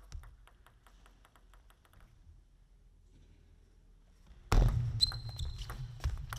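A celluloid-free plastic table tennis ball tapping lightly and quickly, about five taps a second, for the first two seconds. About four and a half seconds in, a sudden loud burst of crowd noise with clapping and banging breaks out.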